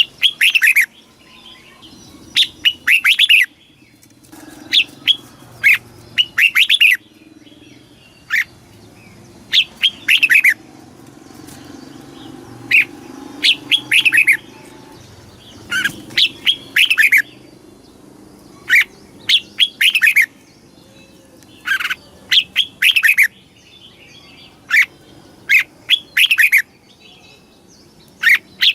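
Red-whiskered bulbul singing: short bright phrases of quick falling whistled notes, repeated every second or two with brief pauses between them. A faint low rumble sits in the background.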